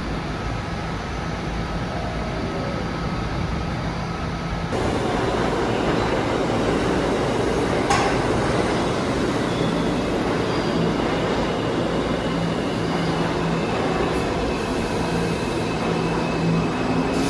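New York City subway train rumbling along the platform track, the noise rising suddenly about five seconds in and staying heavy, with a steady low hum and thin high tones over it; one sharp clack about eight seconds in.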